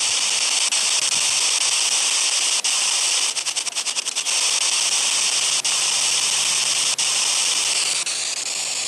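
Steady hiss of radio static from a spirit box scanning through stations, with brief dropouts as it steps. A quick run of clicks comes a little past three seconds in, and a faint wavering whistle near the end.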